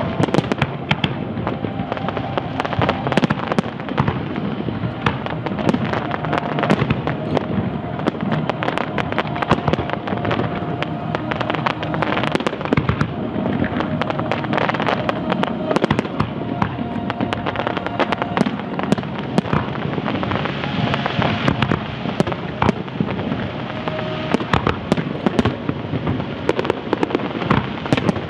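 Large aerial fireworks display: a dense, unbroken barrage of sharp bangs and crackling from shells and batteries bursting one after another.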